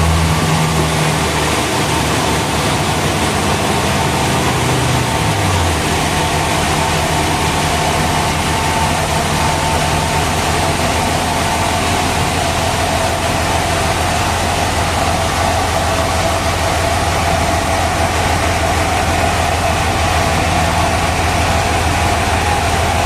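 Sawmill machinery running steadily: a low engine hum with a higher steady whine over it. The engine note drops in pitch a few seconds in, then holds.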